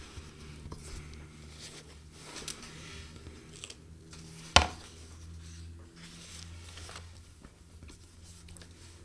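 Quiet small-room noise: a steady low hum with small scattered rustles and ticks, and one sharp click about four and a half seconds in.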